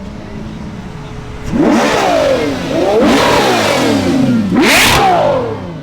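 Car engine revving hard three times, the pitch climbing and dropping with each rev, the last rev near the end the sharpest and loudest.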